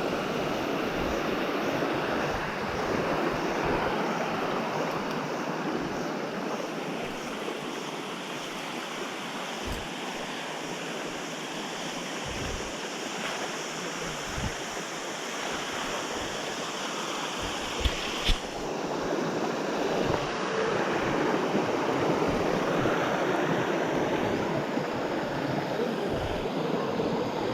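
Steady rush of falling and running water from a jungle waterfall and river, with two short sharp knocks about eighteen seconds in.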